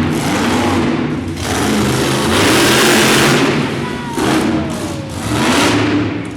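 Monster truck engine revving hard in several surges that rise and fall, the loudest about three seconds in.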